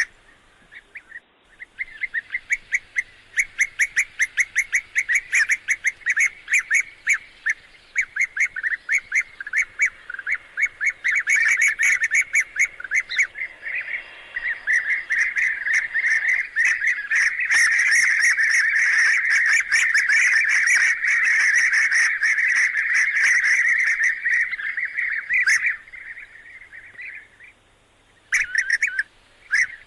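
Bee-eaters giving loud, incessant courtship calls: fast runs of short, high chirping notes. The calls thicken into dense, overlapping calling in the middle, then break off briefly near the end and start again.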